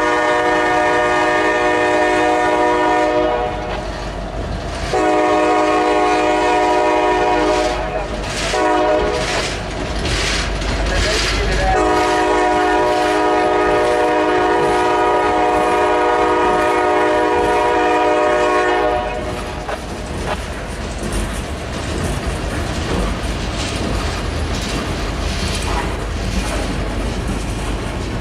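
Locomotive air horn sounding two long blasts, a short one and a final long one held for about seven seconds, the grade-crossing signal, over the rumble and clatter of the passing train, which carries on after the horn stops.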